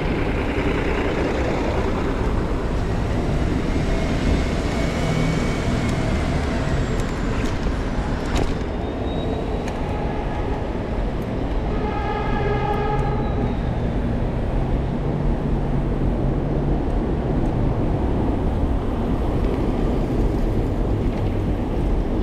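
City street traffic heard from a moving bicycle: a steady low rumble of passing vehicles. Halfway through, a steady pitched tone sounds for about a second and a half.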